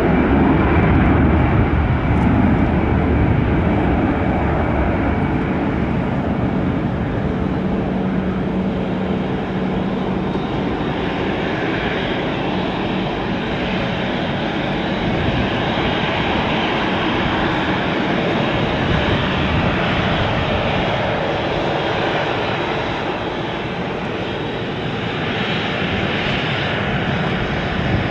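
Airbus A320 airliner's jet engines heard during its landing: a steady, loud rumbling roar that eases slightly for a while in the later part.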